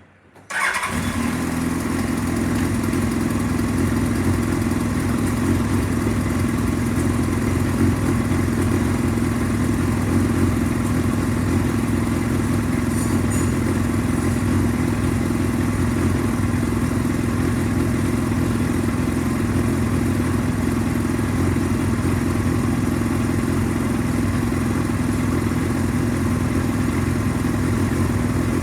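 Yamaha YZF-R1's inline-four engine starting about half a second in and then idling steadily.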